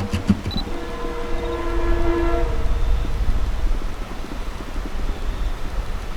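Long Island Rail Road M3 electric train running with a low rumble and a few wheel clicks near the start. Its horn sounds a steady multi-note chord that stops about two and a half seconds in.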